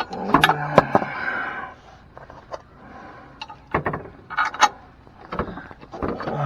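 Scattered sharp metal knocks and clicks, a dozen or so spread irregularly, busiest in the first couple of seconds, from a truck step rail and its mounting hardware being handled and fitted against the frame brackets.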